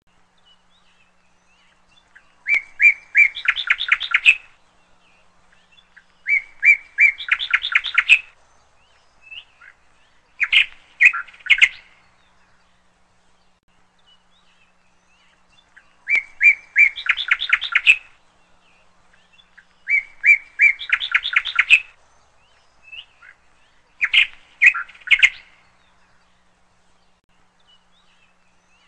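A songbird singing in six short phrases a few seconds apart, each a quick run of repeated chirping notes ending in a trill.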